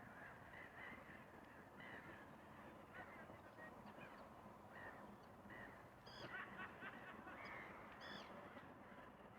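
Distant birds calling: a steady run of short repeated calls, several a second, with two louder calls about six and eight seconds in.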